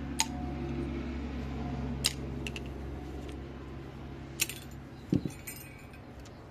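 Sharp metallic clicks and clinks, spread a second or two apart, from a small tool working at a retaining clip inside a rusted ATV brake caliper, with a duller knock about five seconds in. A steady low hum runs underneath and fades in the second half.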